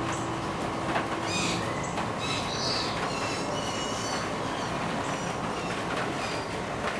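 Steady rain hiss, with short high-pitched chirps and squeals over it.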